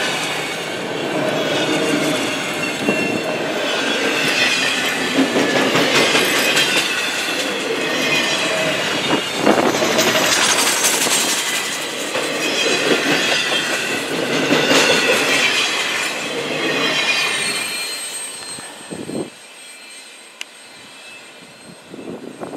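Freight train tank cars and autorack cars rolling past on the rails, wheels clattering with a wavering high squeal and occasional sharp knocks. The noise falls away about eighteen seconds in as the last car goes by.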